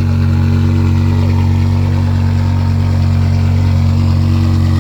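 2006 BMW E60 M5's 5.0-litre V10 idling steadily through its exhaust, a constant note with no revving.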